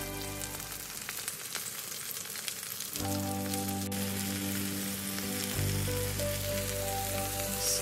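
Vegetables sizzling and crackling as they grill in an oiled grill pan, under background music with held notes that drops back in the low range for the first couple of seconds.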